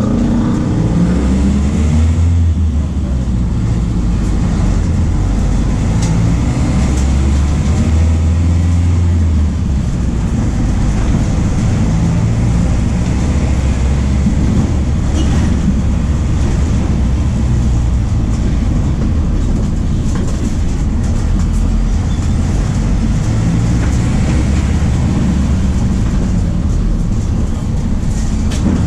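MAN D0834 four-cylinder turbodiesel of a VW 17.230 OD bus running as the bus drives, a steady low drone that swells for a few seconds near the start. Light clatter from the bus body is mixed in.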